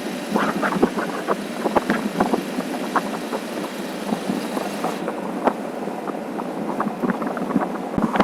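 Motorcycle under way on the road: a continuous, uneven rushing of engine and road noise, with many brief spikes.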